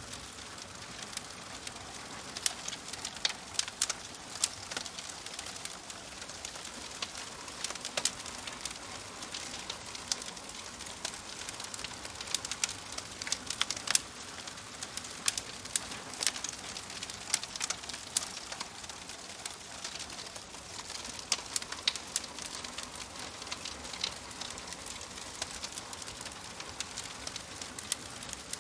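Fireplace wood fire crackling: irregular sharp pops and snaps over a steady soft hiss.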